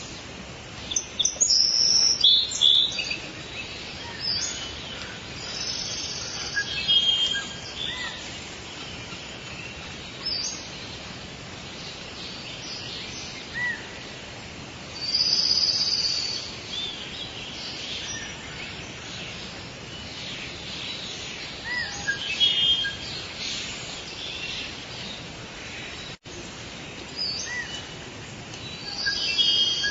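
Several birds calling and chirping over a steady hiss of forest ambience, with louder bursts of song every few seconds. About 26 seconds in, the sound drops out for an instant.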